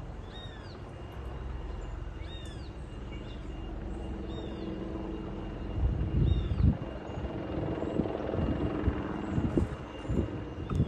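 Helicopter rotor and engine noise, a low rumble that slowly grows louder, with irregular low thumps from about halfway through. A bird chirps about every two seconds in the first half.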